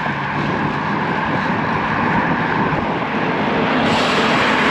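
Steady rushing noise of wind and road traffic picked up by a microphone on a moving bicycle, with a faint low engine hum underneath.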